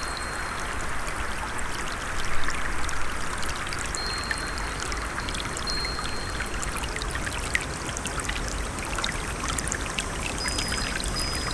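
A stream trickling and splashing steadily over stones. A few short, high, thin steady tones sound at the start, around the middle and near the end.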